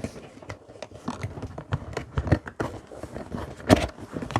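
Irregular knocks, clicks and rustles from handling 3D-printer filament spools and their packaging, with one sharper knock about three-quarters of the way through.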